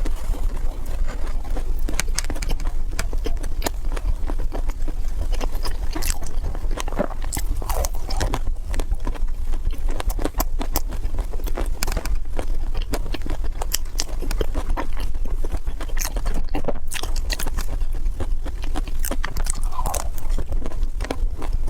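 Close-miked chewing and biting of crunchy food: many quick sharp crunches throughout, over a steady low hum.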